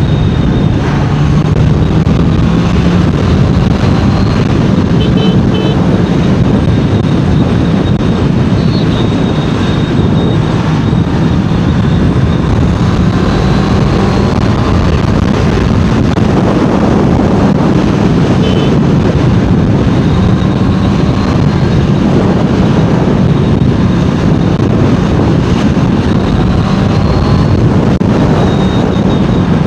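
Honda CBR650R's inline-four engine and exhaust running under way at speed, its engine note shifting up and down a little with the throttle, mixed with heavy wind rush on the microphone.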